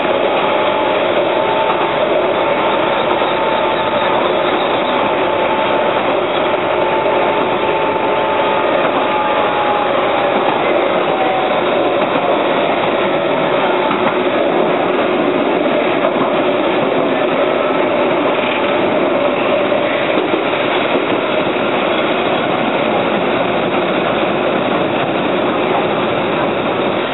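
Keihan Ishiyama Sakamoto Line electric train running, heard from on board: steady running noise with a whining tone that dips slightly about ten seconds in.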